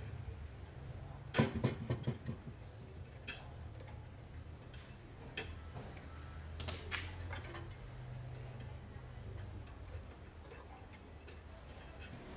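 Small metal carburetor parts and hand tools clicking and tapping as they are handled, in irregular light knocks with a short cluster about one and a half seconds in, over a faint low hum.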